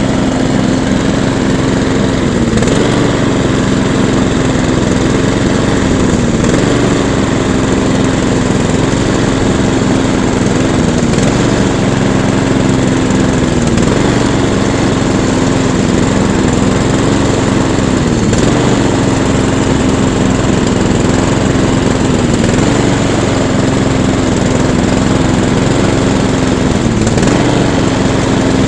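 Small petrol engine running steadily at speed. Its pitch dips briefly and recovers about every four seconds.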